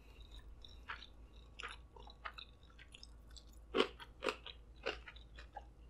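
Close-miked chewing of a piece of sushi roll: small wet mouth clicks and light crunches, with a few louder ones past the middle.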